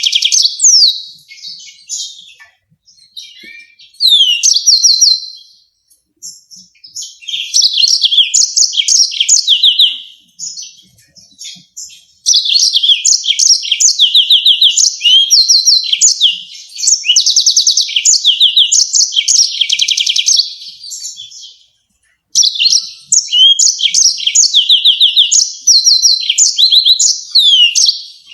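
Yellow-fronted canary singing: fast, high-pitched trilled phrases of rapid repeated notes and chirps, broken by short pauses.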